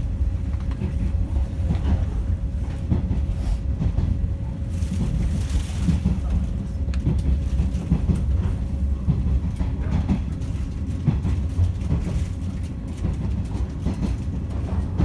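Inside a JNR KuHa 455 express-type electric train car running along the line: a steady low rumble from the wheels and rails, with faint scattered clacks and a thin steady hum.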